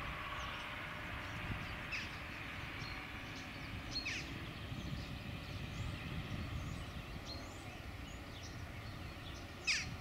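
Scattered bird calls: several short, sharp calls sweeping downward, the loudest near the end, among fainter high chirps. Under them runs a steady low rumble from the distant tractor at work.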